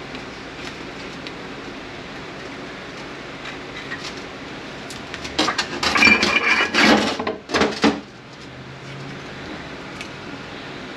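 Metal transmission parts clinking and clattering for about three seconds, starting about five seconds in, with a brief metallic ring, as internal components are pulled apart and handled.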